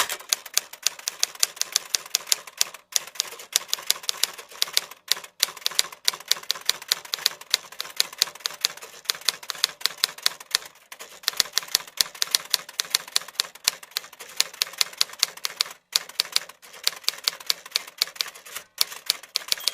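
Typewriter keys striking in a fast, even run of sharp clacks, several a second, broken by a few brief pauses.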